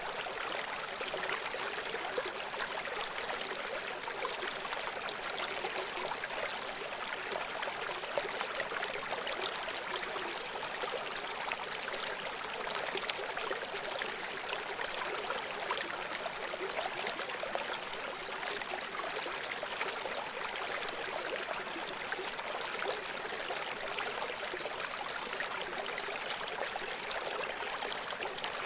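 Running stream: water flowing and trickling over rocks, a steady babbling rush with small splashes throughout.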